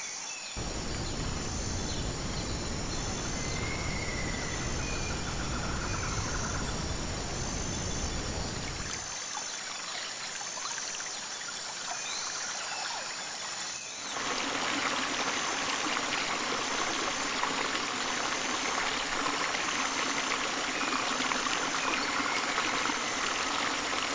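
Running water of a stream, a steady rushing and trickling that changes character abruptly twice, with a high call repeating about once a second throughout and a few short whistles early on.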